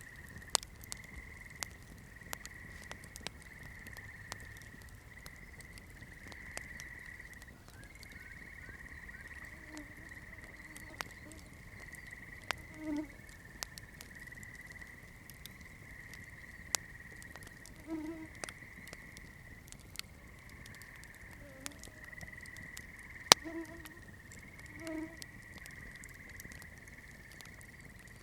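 Campfire crackling, with sharp scattered pops and snaps, the loudest about two-thirds of the way in. Underneath runs a steady high-pitched chorus, with a few short low calls.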